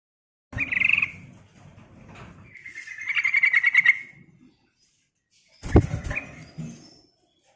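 Yellow-vented bulbul (trucukan) calling: a short bright phrase, then a rapid chattering trill lasting about a second and a half, then another short call near the end. A sharp knock comes just before the last call.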